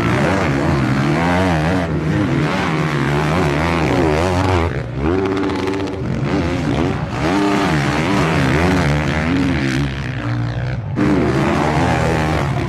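Four-stroke motocross bike engines revving hard, the pitch climbing and dropping again and again with the throttle and gear changes, several bikes overlapping. The sound breaks off and restarts abruptly a few times where shots are cut together.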